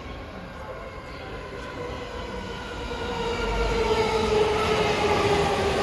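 E231 series electric commuter train pulling into the platform, its motor whine sliding slowly down in pitch as it brakes and growing louder over the last few seconds.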